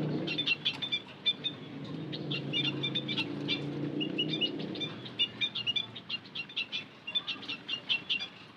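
White-headed munias (bondol haji) chirping: many short, high twittering calls in quick, uneven clusters, as from a small flock.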